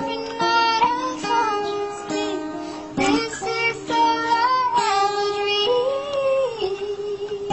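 A child singing a melody over acoustic guitar accompaniment, the voice holding and bending long notes.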